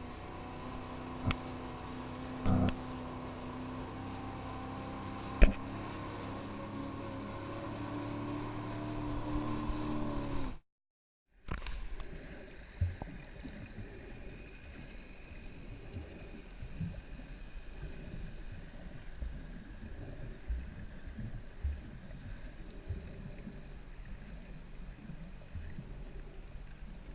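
Jet ski engine running steadily, with a few sharp knocks, one of them loud, and picking up a little just before an abrupt cut about ten seconds in. After the cut, an uneven rush of water and wind with small scattered knocks.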